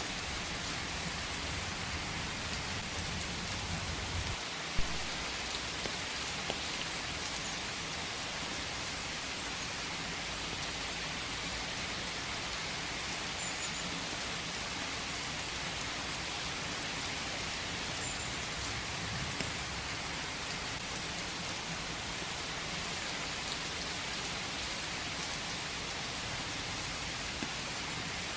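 Steady rain falling, an even hiss of many drops, with a low rumble under it for the first few seconds and one louder sharp tap about five seconds in.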